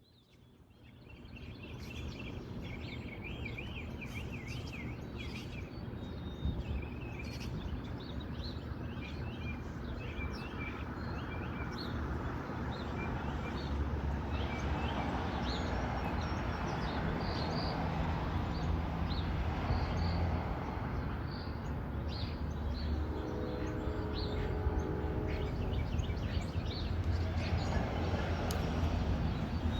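Small birds chirping and twittering in quick, repeated high calls over a low, steady outdoor rumble that grows gradually louder. A brief hum joins about twenty-three seconds in.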